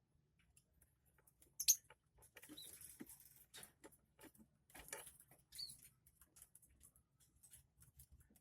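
Faint rustling, scratching and short high squeaks from a lovebird nest box with a brooding hen inside, the loudest squeak about two seconds in.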